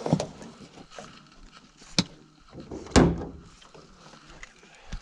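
Knocks and thumps of gear being handled in a boat being unloaded: a knock at the start, a sharp knock about two seconds in, and a heavier, louder thump about a second later.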